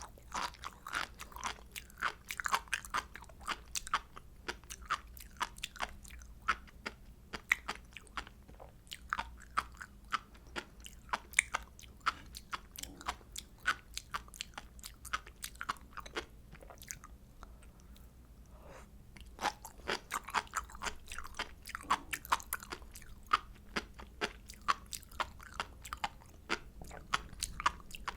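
Close-miked chewing of sea grapes, a dense run of sharp little crunching clicks as the beads burst between the teeth, easing off briefly a little past halfway.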